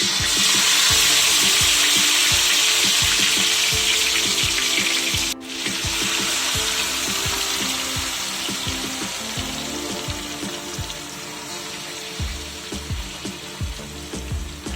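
Marinated chicken pieces dropped into hot oil in a pan, setting off a loud sizzle. The sizzle breaks off for an instant about five seconds in, then carries on and slowly quietens as the frying settles.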